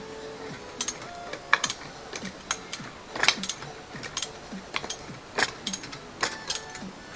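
Sharp metallic clicks and clinks of hand tools working on a car's strut assembly, coming irregularly in short clusters, over faint background music.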